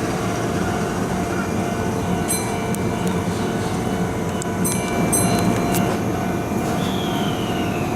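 Keihan electric train running through the station with a steady rumble of wheels and motors. Sharp metallic clicks come about two and five seconds in, and a falling whine is heard near the end.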